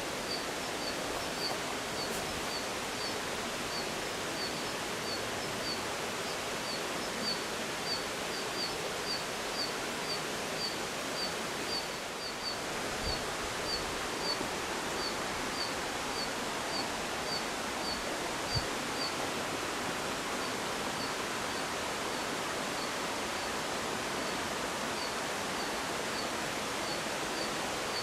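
Steady rushing of a mountain stream, with a faint high chirp repeating about twice a second over it.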